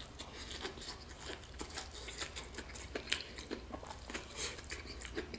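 Chewing a crisp-battered fried chicken thigh strip close up: many small, irregular crunches and crackles of the fried coating.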